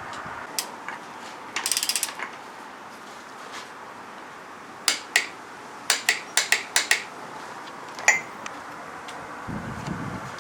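Ratchet wrench clicking as the oil cooler bolts on a Mercedes M112 V6 are tightened toward 70 N·m. A quick run of ratchet clicks comes about two seconds in, then separate sharp clicks between about five and seven seconds and once more near eight. A low rumble follows near the end.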